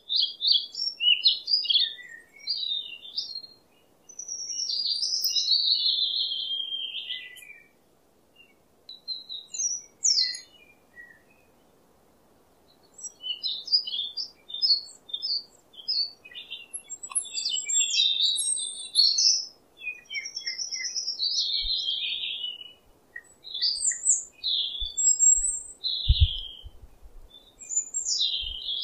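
Birds singing: a run of quick chirps and warbled phrases with short pauses between them. Near the end a few soft low knocks sound under the song.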